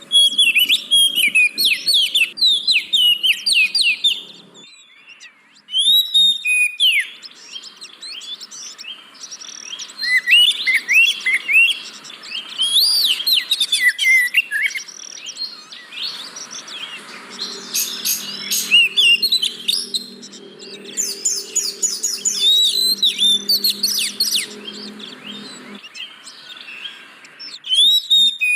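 Oriental magpie-robin singing: a rapid, varied stream of sweeping whistled notes and chirps, pausing briefly about five seconds in, over a faint low hum that comes and goes.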